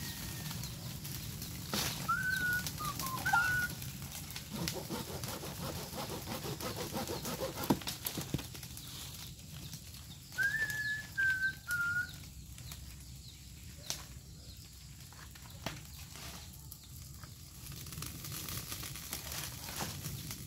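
A bird whistles two short phrases of gliding notes, about two seconds in and again about ten seconds in. Underneath are a steady low hum and a few sharp knocks and cracks as green branches are pushed into the rocket stove's burning chimney.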